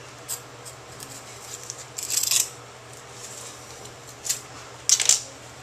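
A few short scraping, rustling sounds, the loudest about two seconds in and near the end, over a steady low hum.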